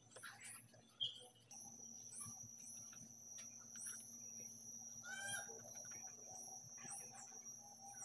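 Faint, high, thin bird chirps, short downward slides repeating every half second or so, over a steady high-pitched whine and a low hum.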